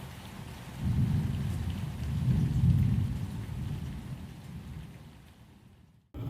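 Steady rain, with a deep rumble of thunder swelling about a second in and slowly dying away. The sound cuts off suddenly near the end.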